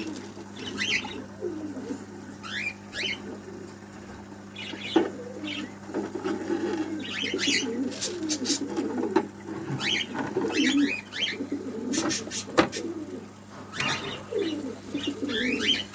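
Pigeons cooing repeatedly, with small cage birds chirping over them and several sharp clicks.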